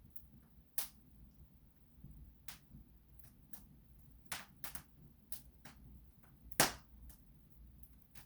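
Wood fire in a fireplace crackling: irregular sharp pops and snaps over a faint low rumble, the loudest pop coming about two-thirds of the way through.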